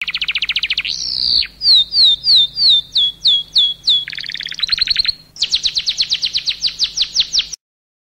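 A songbird singing in changing phrases: a fast trill, then a run of clear down-slurred whistles about three a second, another short trill, and a faster run of down-slurred notes. It cuts off abruptly near the end.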